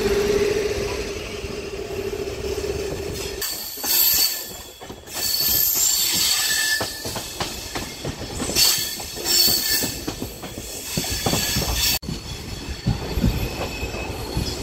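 Passenger train running, heard from on board a coach: wheels clacking over rail joints with high-pitched wheel squeal. A steady hum fills the first few seconds, and the sound breaks off abruptly a couple of times.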